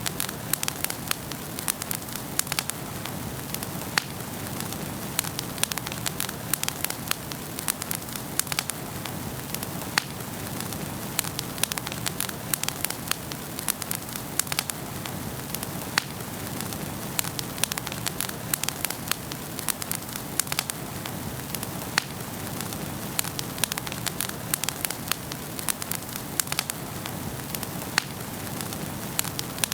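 Wood fire in a fireplace burning steadily, with dense, irregular crackles and pops over a soft hiss.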